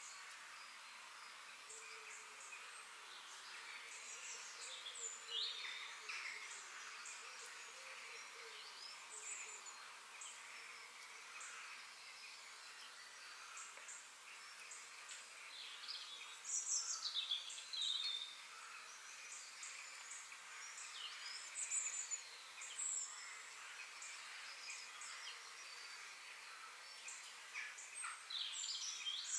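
Several forest birds chirping and singing in short, scattered phrases over a steady background hiss.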